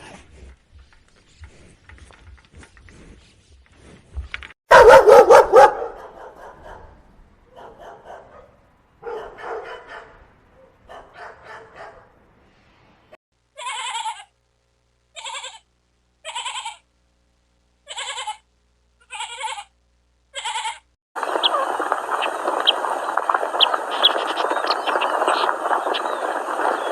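A run of different animal calls. One loud call about five seconds in, then softer calls, then six short calls about a second apart. A steady hissing, rustling noise fills the last few seconds.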